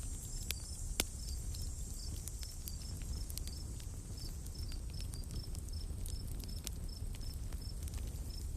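Forest ambience: an insect chirping in short, high double notes over and over, with scattered sharp crackles from a campfire and a low, steady rumble underneath.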